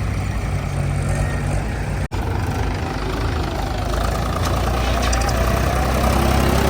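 Heavy diesel machinery engine running steadily at a low idle-like drone, with a brief cut-out about two seconds in.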